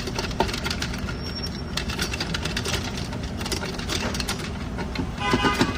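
Steady low hum of a running shop fan, with scattered light clicks and knocks of transmission parts being handled.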